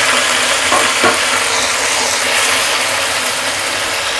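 Onion paste sizzling as it fries in hot vegetable oil in a kadai, the paste freshly added. A steady hiss that eases slightly, with one knock about a second in.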